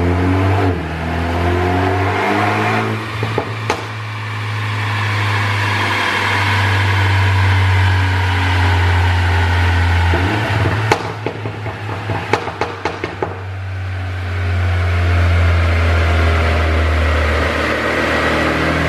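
BMW 428i's turbocharged 2.0-litre four-cylinder engine revving up under full load in long pulls on a dyno. As the throttle closes about three seconds in and again around eleven to thirteen seconds in, the exhaust pops and crackles on the overrun, the effect of the 'pop sound' ECU tune.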